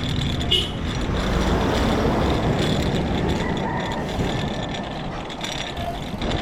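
A motor vehicle, likely a truck, passing on the road. The engine and tyre noise swells about a second and a half in, then eases away.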